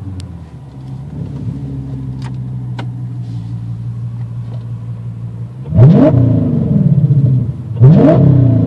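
The 5.2-litre V10 of an Audi S8 with its mufflers removed, idling steadily as heard from inside the cabin, then blipped twice in neutral about six seconds in and again two seconds later, each rev rising quickly and falling back.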